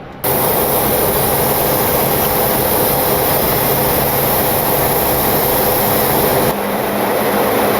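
Steady, loud cabin noise in a Boeing 727-200 cockpit in flight: rushing air and engine noise with a faint hum. It starts abruptly just after the start and shifts slightly in tone near the end.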